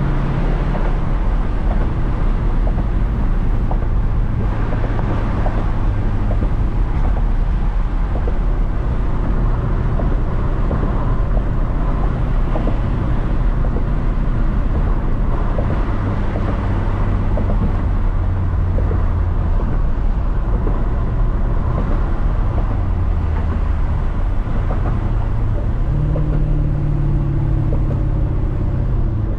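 Lexus SC430's 4.3-litre V8, run with an X-pipe and straight pipes, droning steadily while driving. Its pitch steps up and down a few times as the revs change.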